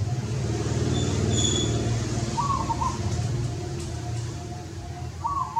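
A low rumble that swells and then slowly fades, with short bird chirps twice and a brief high whistle over it.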